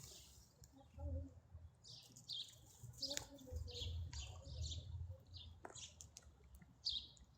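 A small songbird singing a quick run of short, high chirping notes, starting about two seconds in and following one another rapidly.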